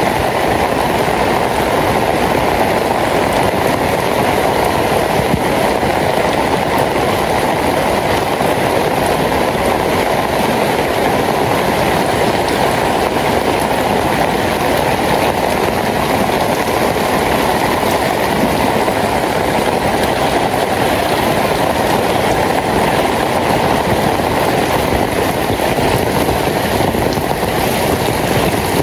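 Steady heavy rain falling, a loud even rushing noise that does not let up.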